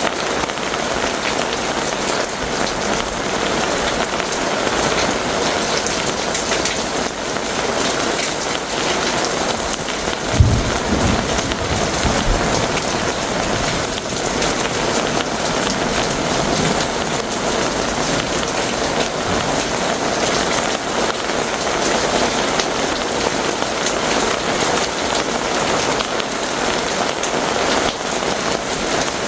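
Heavy rain pouring steadily in a thunderstorm. About a third of the way in, a sudden clap of thunder with a short low rumble that fades within about two seconds.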